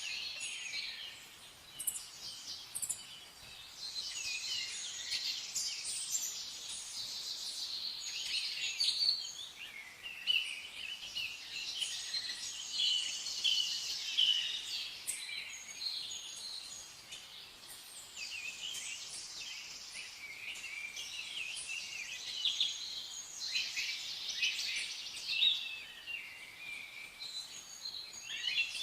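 A chorus of small birds chirping, with many short, high calls overlapping continuously.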